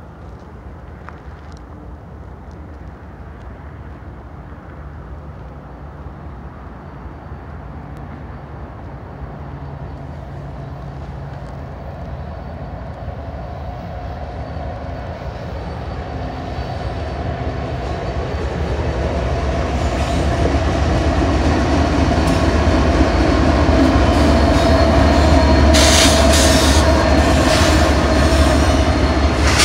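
Four BNSF diesel-electric locomotives (an ES44DC leading two SD70ACe units and an ES44C4) pulling a double-stack intermodal train, their engines growing steadily louder as the train approaches. In the last few seconds, as the units pass, there is high squealing and clatter of steel wheels on the rails.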